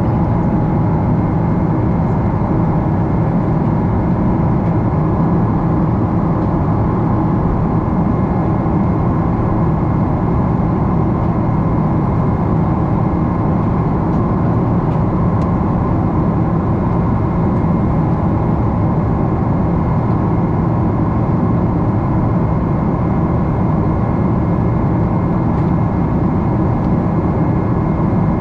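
Boeing 777-300 cabin noise in flight: a steady rumble of jet engines and rushing air, with a few faint steady tones over it.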